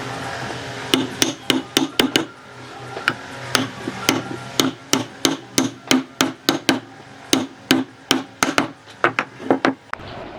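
Hammer blows on wood, struck over and over at about three a second, with a short pause a little after two seconds in.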